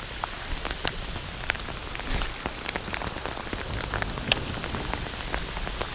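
Rain pouring down: a steady hiss broken by many sharp taps of drops striking close by, one louder tap about four seconds in.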